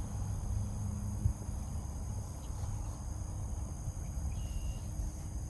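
Outdoor ambience: a steady low rumble with a faint, even high-pitched insect drone over it, and a single sharp knock about a second in.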